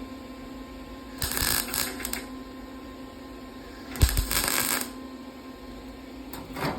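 Two short bursts of wire-feed (MIG) welding, each crackling for about a second, about a second in and again about four seconds in, with a brief third one near the end: an old 110-volt welder, turned down in heat, filling trim holes in a car's sheet-metal quarter panel against an aluminum backing piece.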